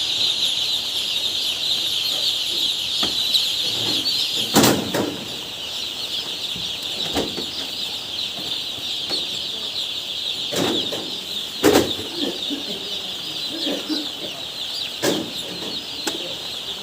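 A flock of broiler chickens peeping and clucking together in a constant high chatter, broken by a few sudden thumps or wing flaps.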